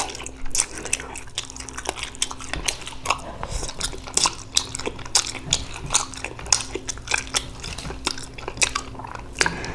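Wet chewing and lip smacking on a mouthful of ramen noodles: a fast, irregular run of small wet clicks.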